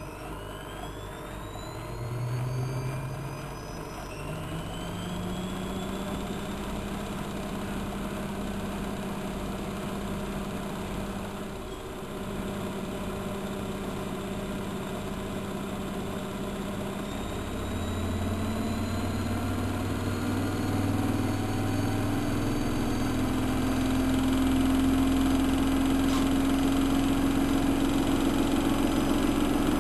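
Bauknecht WA1400 Dolphin washing machine running up into its spin. The motor hum climbs in steps and holds a steady pitch for a while. From about two-thirds of the way through it rises again and grows louder as the drum speeds up.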